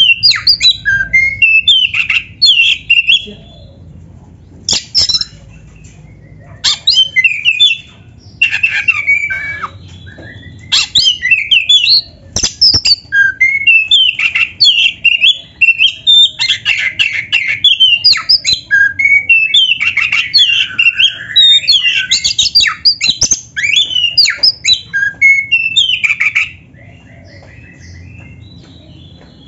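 Black-breasted oriental magpie-robin singing loud, varied bursts of whistles, chatters and trills, with canary phrases woven in, broken by short pauses and falling quiet near the end.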